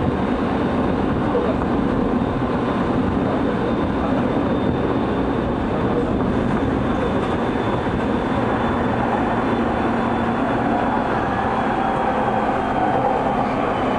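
JR East 209 series electric train heard from inside the car while running: steady wheel-on-rail noise with the whine of its MT68 traction motors, a faint high tone that drifts slightly lower near the end.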